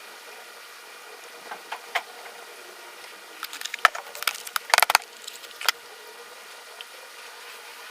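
Plastic motor-oil jugs being handled and opened: a few light clicks, then a quick flurry of clicks and clatter about halfway through, over a faint steady hum.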